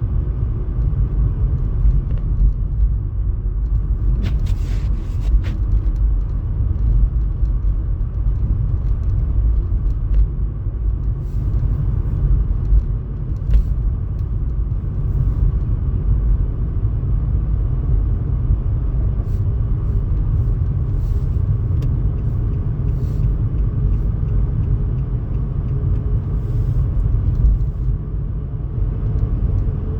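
Steady low rumble of a car on the road, with a few faint clicks over it.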